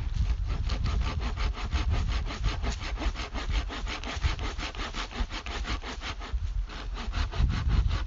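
Hand saw cutting through wood in quick, even back-and-forth strokes, with a brief pause near the end before the sawing starts again.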